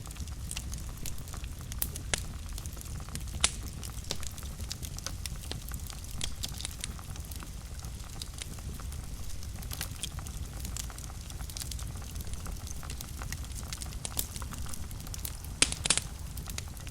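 Fire burning in a fireplace, crackling with scattered pops over a low steady rumble. A sharp pop comes about three and a half seconds in, and a quick cluster of louder pops comes near the end.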